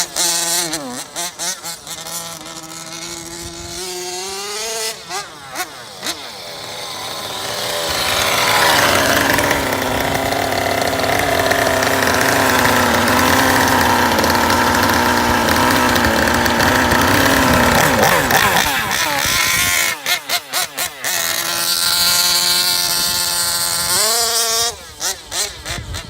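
A 57cc twin-cylinder two-stroke RC gas engine on its break-in run. It idles unevenly, then is throttled up to high revs and held there for about ten seconds. It then drops back to a choppy idle, with a brief blip of throttle near the end.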